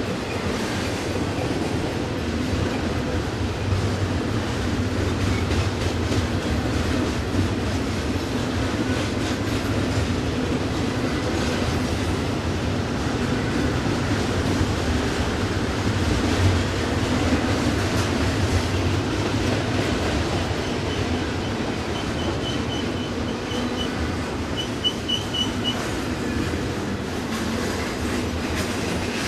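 A long Norfolk Southern intermodal train's container cars rolling past with a steady rumble, wheels clicking over the rail joints. A brief, high, pulsing wheel squeal comes about three-quarters of the way through.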